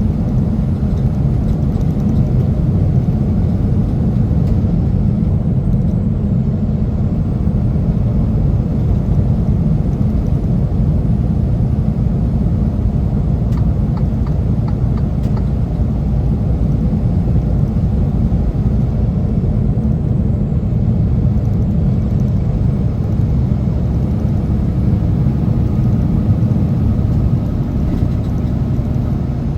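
Steady low rumble of a heavy truck driving: engine and road noise with no change in pitch.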